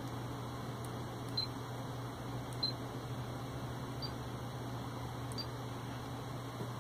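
Pioneer AVH-P6380BT car head unit giving four short high beeps, about a second apart, each confirming a touchscreen press, with faint taps of the stylus on the screen. A steady low hum and hiss from the bench speaker setup sit underneath.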